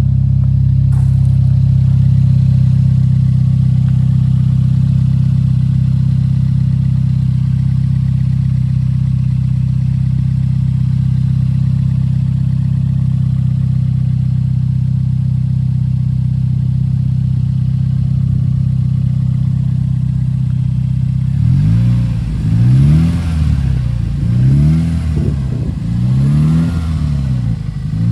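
Toyota Yaris 1NZ-FE 1.5-litre VVT-i inline-four engine idling steadily. Near the end it is revved up and let fall back to idle, about every two seconds.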